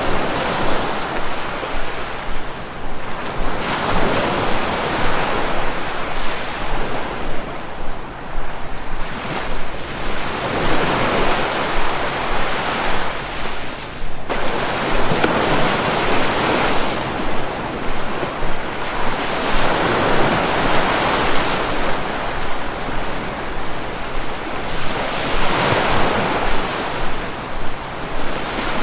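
Sea waves breaking and washing ashore, the surf swelling and falling back about every five seconds.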